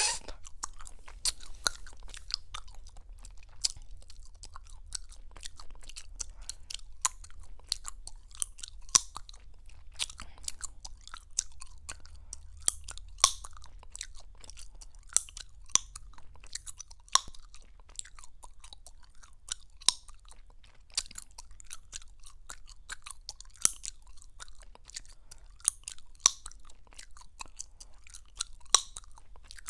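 Close-miked gum chewing: wet smacking with many small clicks and, every second or two, louder sharp pops and snaps of the gum.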